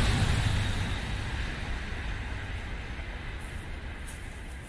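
Train rumbling across a bridge, the noise fading steadily as it moves away.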